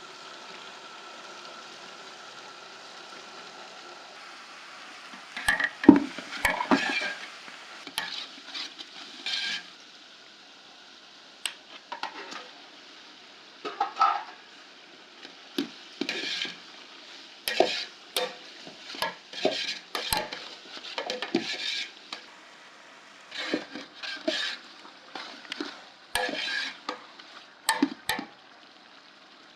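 A spoon stirring and scraping in a cooking pot on the stove, in irregular strokes about once a second, over a faint steady sizzle. For the first five seconds only the sizzle is heard.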